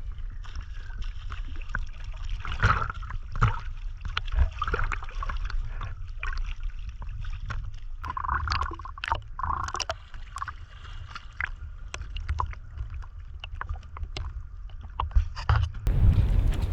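Small-boat-on-the-water ambience: a steady low wind rumble on the microphone, with water sloshing and scattered knocks. The sound changes abruptly to louder, steadier wind noise near the end.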